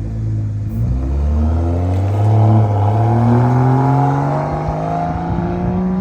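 BMW E92 335i's turbocharged inline-six, exhaust with the muffler deleted, accelerating hard: the engine note climbs steadily in pitch through a single gear.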